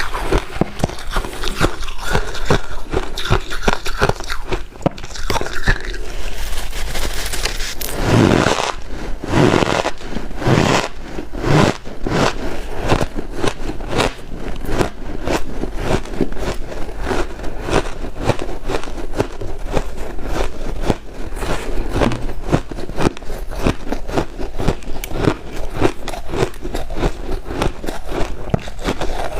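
White ice being bitten and chewed: a continuous run of crackling crunches, with several louder bites about eight to twelve seconds in.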